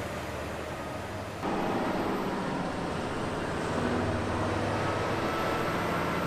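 Heavy vehicle engines running steadily, with a low hum over road noise; the sound changes abruptly about a second and a half in.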